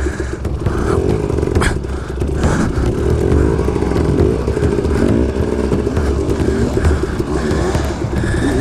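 KTM 250 XC-W two-stroke dirt bike engine revving up and down as it is ridden along a trail, with a sharp knock about a second and a half in.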